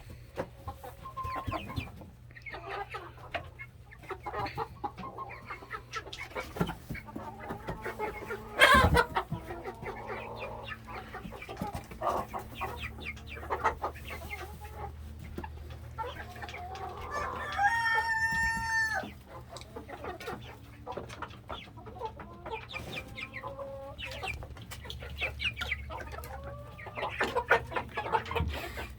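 Chickens clucking, with a rooster crowing once, a call of about a second and a half, a little past halfway. A single sharp knock, the loudest sound, comes about nine seconds in.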